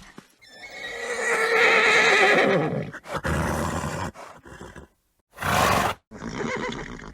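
A horse neighing: one long whinny with a shaking, wavering pitch, followed by three shorter, noisier bursts of breath and voice.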